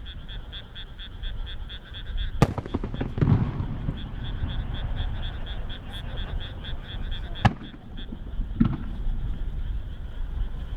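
Aerial firework shells bursting one at a time: a sharp bang about two seconds in followed by a low rolling rumble, another sharp bang past seven seconds, and a softer bang a second after it. Underneath, frogs call in a rapid steady pulsing chorus, about five pulses a second.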